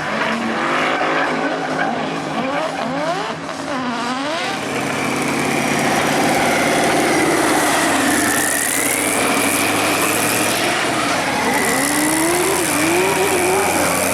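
Mercedes-AMG M156 V8 in a BMW E46, revving up in several rising pulls, then held at high revs as the rear tyres squeal continuously with a wavering high pitch from about four and a half seconds in, as in a burnout or drift.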